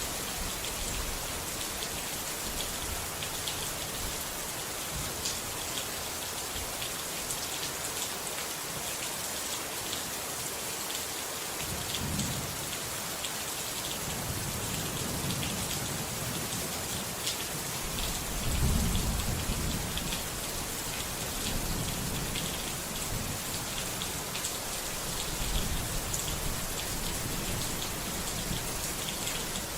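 Steady rain falling, with low rolls of thunder coming in about twelve seconds in, the loudest one a little past halfway.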